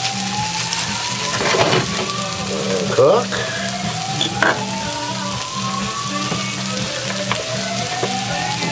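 A potato latke sizzling steadily as it fries in a stainless steel pan, with a few clicks and scrapes of a fork against the pan in the first half.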